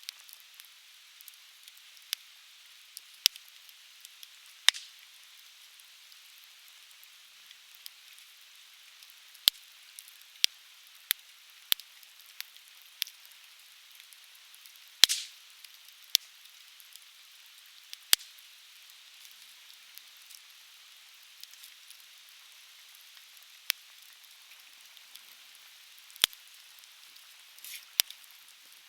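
Conifer wood burning in an open fire pit, crackling with sharp, irregular pops, the loudest about halfway through, over a steady hiss from a shallow stream.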